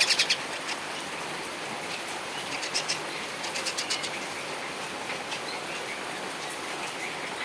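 Birds' wings flapping in two short, rapid bursts about three and four seconds in, over a steady hiss of falling rain.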